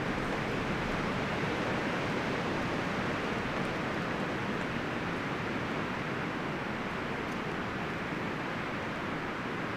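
Wind rushing through forest trees, a steady, even rustle of leaves and branches.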